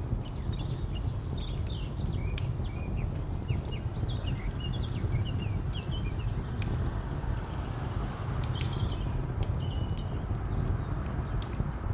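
Wood fire crackling with scattered sharp pops over a steady low rumble of distant traffic, with small birds chirping in short bursts of high notes.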